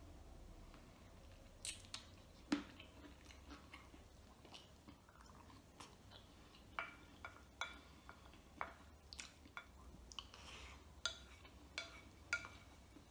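Quiet, close-miked chewing of chicken and rice from a pot-au-feu, with a string of short, sharp mouth and utensil clicks. The loudest click comes about two and a half seconds in.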